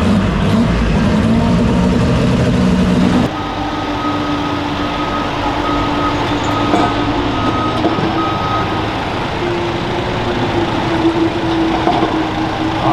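Super stock pulling tractor engine running hard. It cuts off abruptly about three seconds in, giving way to a steadier, lower engine sound with an on-and-off high beeping tone.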